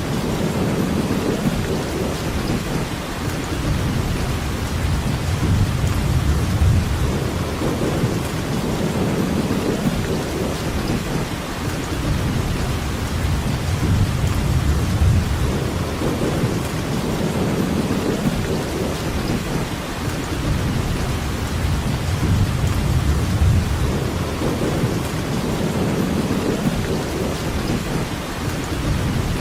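Steady rain, with a deep rumble underneath that swells and fades every few seconds.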